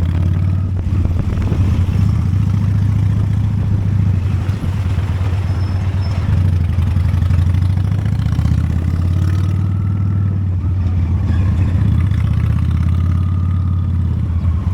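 Honda Steed V-twin motorcycle engine running steadily with a low, even drone.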